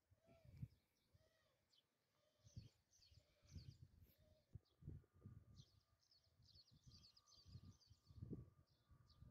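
Near silence, with faint small-bird chirps scattered throughout and a few soft low thumps.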